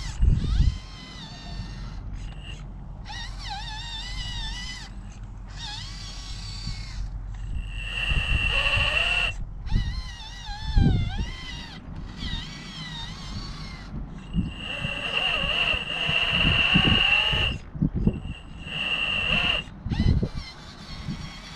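Electric motor and gear drive of a radio-controlled rock crawler whining, the pitch rising and falling with the throttle in short stretches that cut off suddenly, with wind buffeting the microphone.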